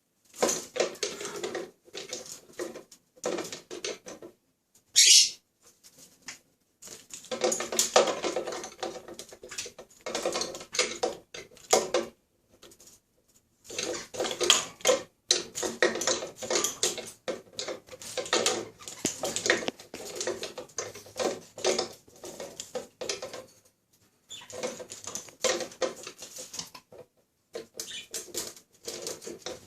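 Caique parrot bathing: repeated bursts of splashing and wing-flapping in water, broken by short pauses, with one brief, shrill screech about five seconds in.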